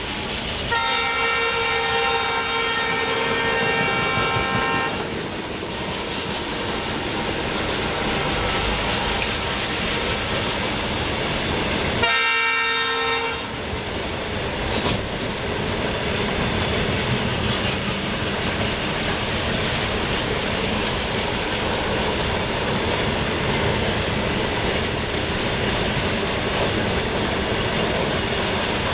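Pair of EMD WDG4 diesel locomotives passing at speed, with a multi-note air horn blown for about four seconds near the start and again briefly about twelve seconds in. After that the BCNA freight wagons roll by in a continuous rumble, their wheels clattering over the rail joints.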